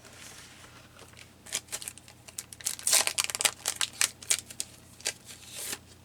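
Paper crafting materials being handled, crinkling and rustling in a quick run of sharp crackles from about a second and a half in until near the end.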